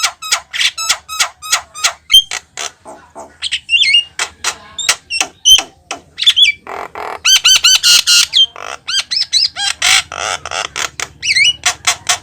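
Javan myna calling continuously: quick runs of short harsh chattering notes about four a second, mixed with whistled notes that slide up and down and, in the middle, a few longer raspy squawks.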